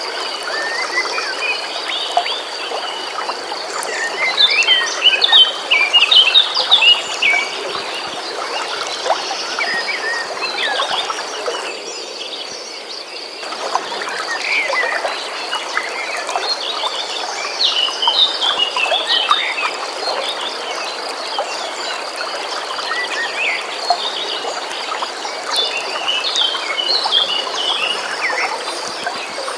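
Birds chirping and singing in short flurries over the steady rush of a flowing stream, with a continuous high trill, like an insect or frog chorus, underneath. The bird calls bunch up a few seconds in, again in the middle and near the end.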